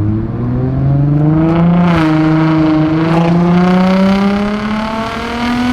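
Straight-piped Infiniti G35's 3.5-litre V6 exhaust pulling under acceleration, its pitch rising steadily. About two seconds in the pitch dips briefly, as at a gear change, before it climbs again.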